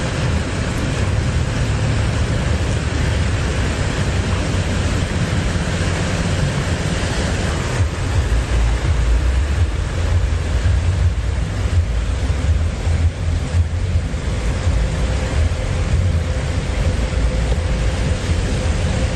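Floodwater rushing through an overflowing gully: a steady, loud rush of water with a deep rumble, and wind buffeting the microphone.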